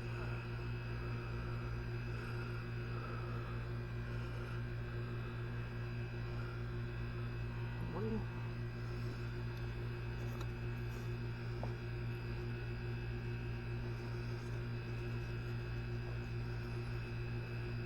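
Steady low hum with a stack of even overtones that does not change in pitch or level.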